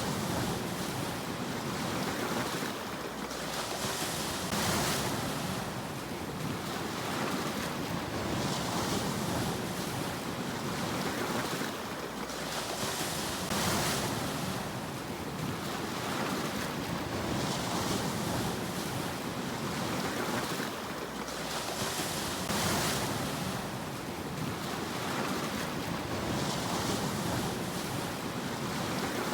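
Sea waves washing onto a shore, each swell breaking into a hiss about every four to five seconds over a steady rumble of surf.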